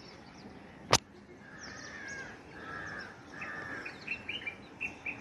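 Birds calling at dawn: three drawn-out calls about a second and a half in, then a quick run of short chirps near the end. A single sharp click sounds about a second in.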